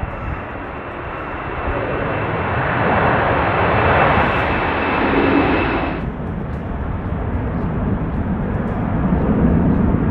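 Jet airliner engine noise: a steady high whine over a rushing roar that swells. About six seconds in the sound changes abruptly to a duller, lower engine noise, as one recording cuts to another.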